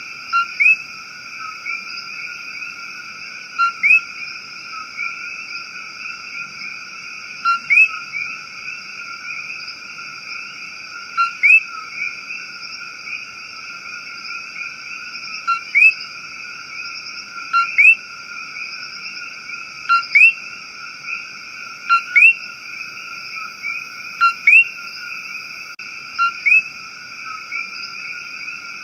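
Rainforest ambience: a steady, unbroken chorus of calling frogs and insects, with a louder short chirping call repeating every two to four seconds, often twice in quick succession.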